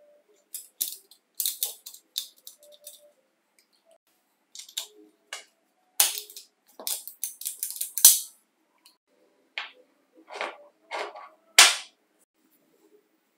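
Irregular clicks, clacks and taps of small hard parts and tools being handled and set down, with a few sharper snaps; the loudest come about six, eight and eleven and a half seconds in.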